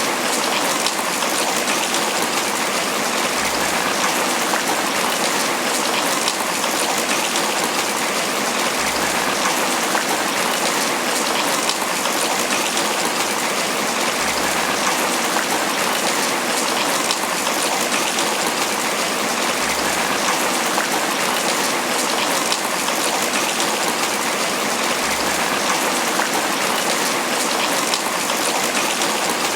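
Steady tropical rain falling on banana leaves: a dense, even hiss of countless drops that holds constant.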